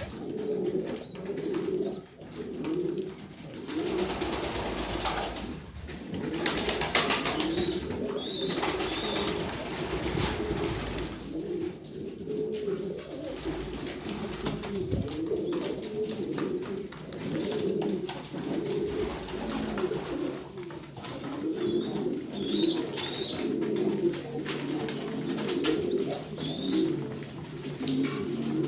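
Several domestic Shami pigeons cooing continuously in overlapping calls, with a few short high chirps here and there.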